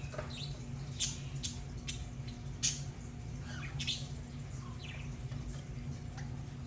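Budgerigars chirping and squawking: a string of short, sharp chirps and a few sliding notes, over a steady low hum.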